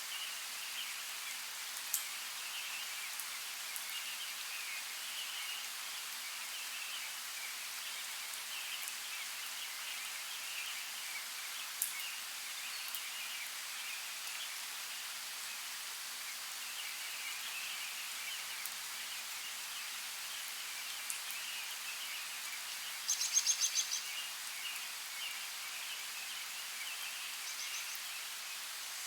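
Light rain falling as a steady hiss, with birds chirping in the background and a few sharp drip clicks. Near the end a bird gives a quick, loud run of high notes.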